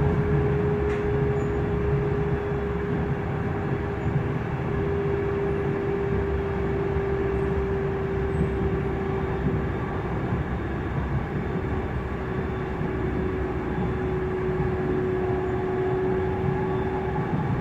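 Frankfurt U-Bahn train heard from inside the passenger car: steady running noise with a whine held at one pitch throughout.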